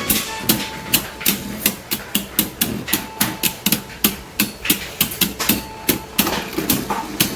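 Jet Wyvern and Helios Volcano Beyblade tops clashing repeatedly in a stadium, sharp clacks about two to three times a second.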